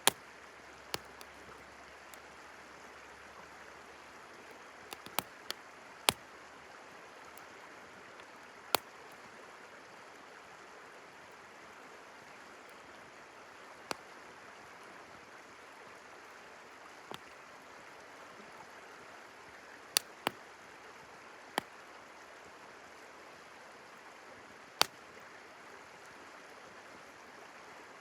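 Wood campfire crackling, with sharp single pops every few seconds, over the steady rush of a flowing river.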